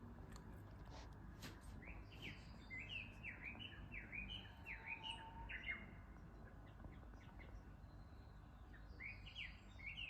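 Small songbirds twittering faintly: runs of quick, falling chirps, a long run through the middle and another near the end, over a low steady background hum.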